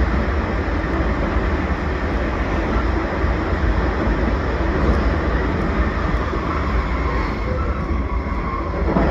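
JR Central 383-series Limited Express Shinano electric train running along the track, a steady low rumble of wheels on rail with no distinct events.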